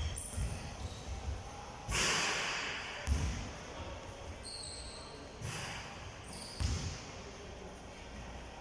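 Low thuds at uneven intervals, like a ball bouncing on a hard floor, in a large echoing room, with a few short swishes and a brief high squeak about four and a half seconds in.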